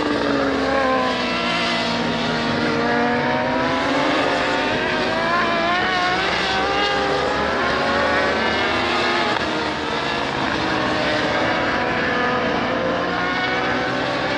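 Superbike engines at racing revs, their pitch falling at first and then rising and dipping repeatedly as the riders shift gears and work the throttle. More than one engine note can be heard at once.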